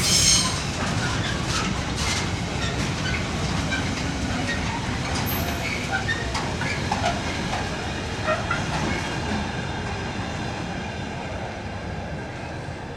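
Loaded container freight wagons rolling past on the rails: a steady rumble of wheels with scattered clicks and short squeaks. It fades gradually as the tail of the train goes by.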